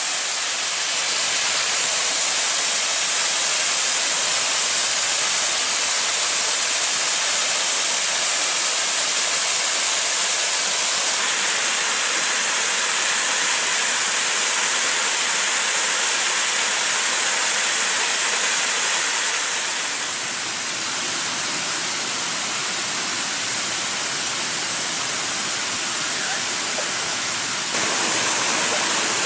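Waterfall water falling and splashing in a steady, hissing rush. It drops a little in level about two-thirds of the way through and comes back up near the end.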